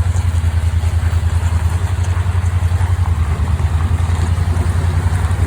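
Small utility vehicle's engine running at a low, steady speed: a deep, even throb.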